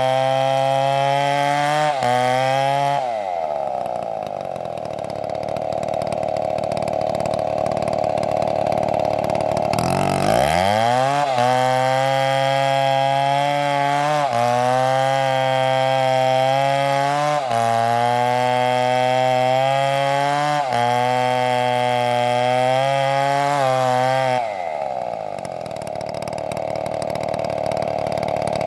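STIHL chainsaw cutting wood, its engine running at high revs. Twice, about three seconds in and near the end, the pitch sinks into a lower, rougher sound for several seconds before it revs back up.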